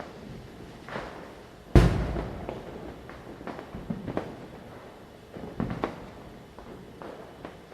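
Firecrackers bursting at irregular intervals, with one loud bang that rumbles and echoes away about two seconds in, and several smaller bangs and pops after it.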